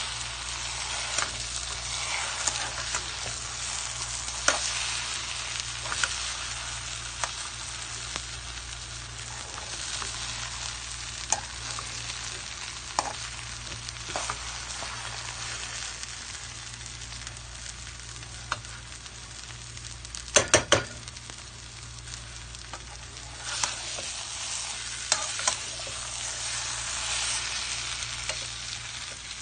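Taro leaves and shrimp sizzling in a frying pan while a metal spoon stirs and scrapes them, with scattered clicks of the utensil against the pan. About two-thirds of the way through comes a quick run of four sharp knocks.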